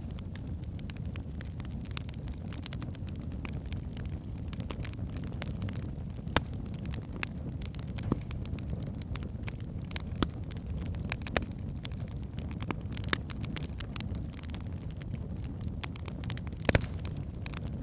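Wood fire burning in a fireplace: a steady low rumble of flames with irregular sharp crackles and pops from the logs, a few louder pops standing out, the loudest near the end.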